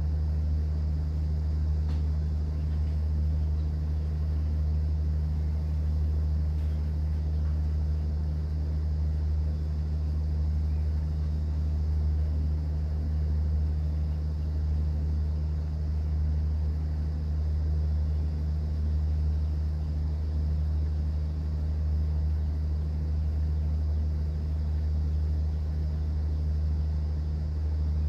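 Cruise boat's engine running with a steady low drone, over a faint wash of sea water.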